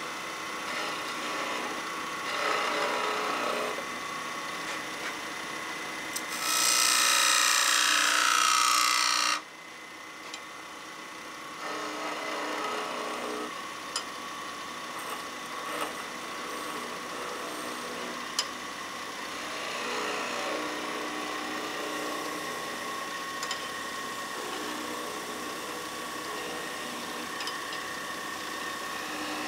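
Wood lathe running while a turning tool cuts a spinning pine blank, in several spells of cutting. The loudest cut, about a fifth of the way in, lasts about three seconds and stops abruptly.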